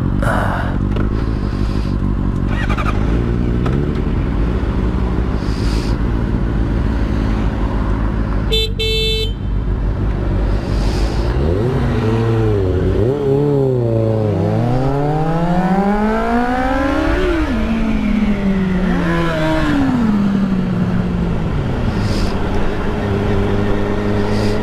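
Motorcycle engine running under way, with a horn honking briefly about a third of the way in. Past halfway the engine accelerates through the gears, its pitch rising and dropping with each shift.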